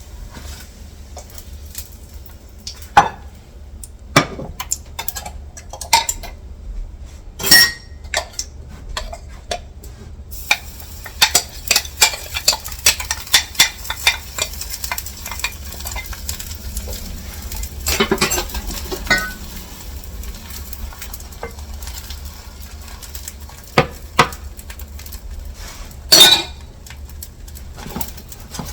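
Kitchen utensils clinking and scraping against a pan and dishes while chive pancakes fry with a light sizzle. There is a run of quick clicks midway and a few louder knocks.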